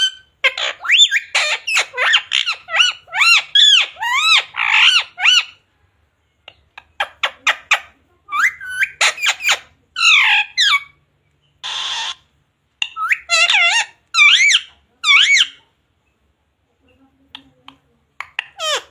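Pet Indian ringneck parrot squawking and chattering in quick runs of high, sharply bending calls. There is a short pause in the middle, a harsh screech about twelve seconds in, and a longer lull near the end.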